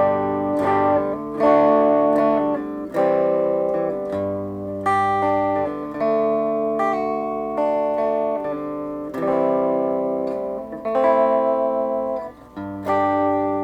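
Electric guitar played on its neck pickup through a Positive Grid Reactor 50 combo amp set to a smooth clean tone: chords and single notes ringing out, with a new strum or note about once a second and a short gap near the end.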